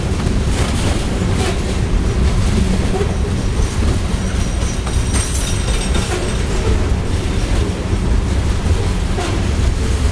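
Coal gondola cars of a freight train rolling past at a grade crossing: a steady heavy rumble with repeated wheel clicks over the rail joints, and a brief faint high wheel squeal about halfway through.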